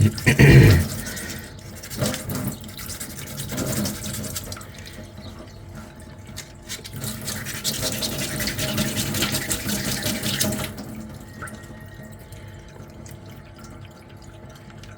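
Fine-grit sandpaper rubbed by hand over a putty-coated finger-armour ring, a rough scratchy hiss in uneven strokes with a longer run of sanding a few seconds in, then lighter near the end. A brief handling knock about half a second in is the loudest sound.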